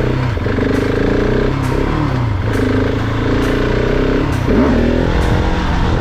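Motorcycle engine running while being ridden, its note shifting up and down a few times as the throttle is opened and closed.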